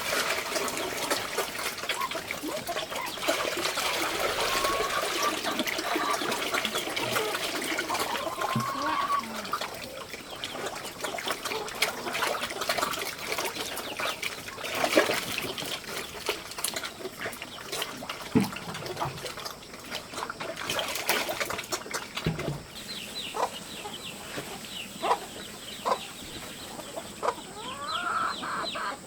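Chickens clucking over a steady splashing, trickling water sound that drops away about ten seconds in, then scattered knocks and clicks.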